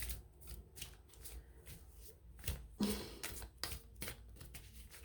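A tarot deck being shuffled by hand: a run of quick, irregular, soft card clicks and flicks.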